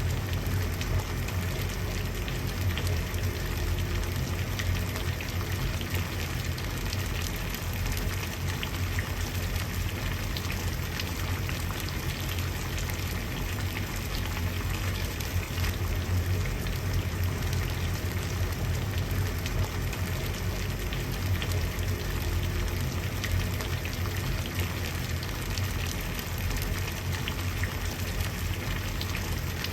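Water boiling, bubbling steadily with a dense patter of small pops over a low rumble.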